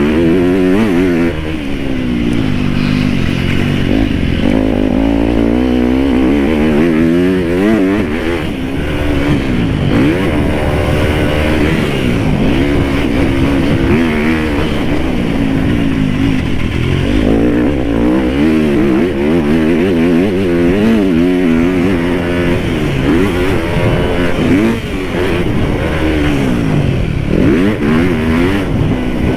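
Dirt bike engine revving hard as it is ridden round a motocross track, its pitch climbing and dropping again and again every second or two.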